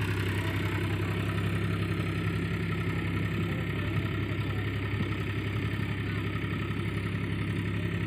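Powertrac tractor's diesel engine running steadily under load, driving a rotavator through wet paddy-field mud.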